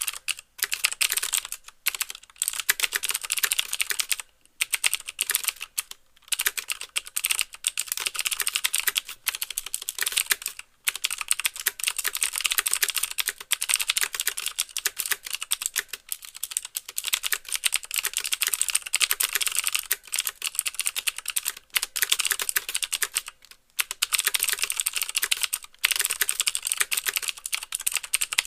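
Fast continuous typing on a mechanical keyboard with clicky Cherry MX Blue switches: sharp clicks from each switch together with the clack of keys bottoming out. Brief pauses break the run every few seconds, and it stops just at the end.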